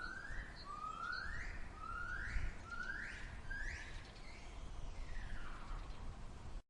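A bird calling a series of about six rising whistled notes, roughly one a second, each sweeping upward in pitch, over faint outdoor ambience; the sound cuts off suddenly near the end.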